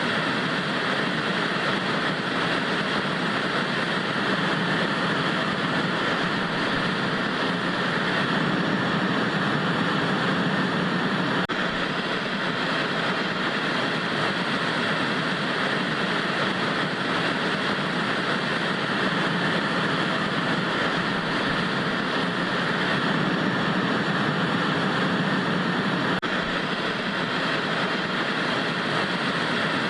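Steady hiss of vintage analog TV static: an even, unchanging rushing noise, fullest in the low and middle range.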